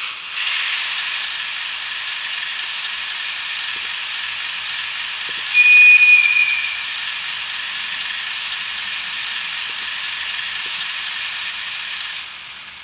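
ESU LokSound sound decoder in an HO-scale EF210 locomotive model playing a steady hiss through the model's small speaker, with a short, louder high-pitched horn toot about five and a half seconds in. The sound dies away near the end.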